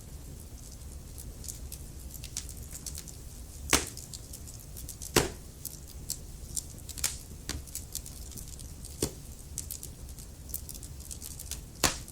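Wood fire crackling in a fireplace: scattered small crackles over a low steady rumble, with three louder pops, about four seconds in, about five seconds in, and near the end.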